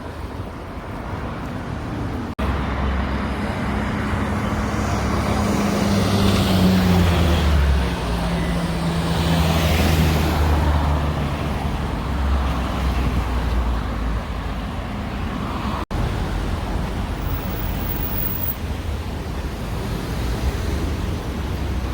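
Street traffic noise, with a heavy vehicle's engine running close by and passing about ten seconds in, leaving a steady traffic hum.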